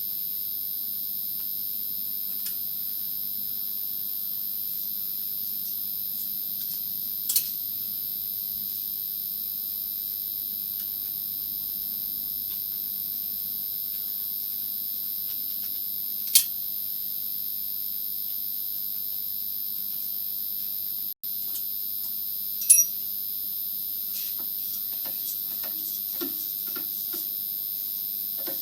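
A steady high-pitched whine over a faint low hum, with three short sharp clicks, one about seven seconds in, one past the middle and one near the end.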